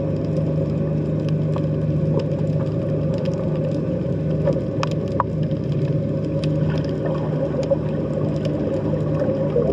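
Underwater sea ambience picked up below the surface: a steady low drone with scattered faint clicks and crackles over it.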